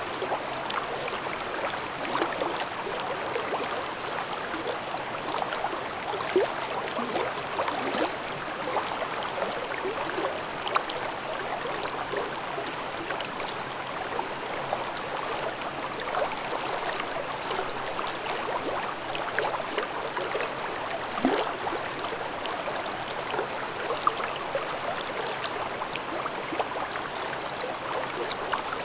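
Gorge stream babbling: a steady rush of flowing water with small gurgles throughout and a few brief louder spurts.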